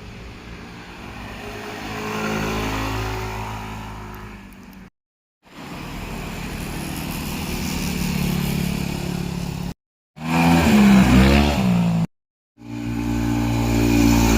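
Motorcycles riding past with engines revving and running up through the gears, heard in four short stretches cut together with brief silent gaps between them. In the third stretch, just after ten seconds, the engine pitch dips and climbs again quickly.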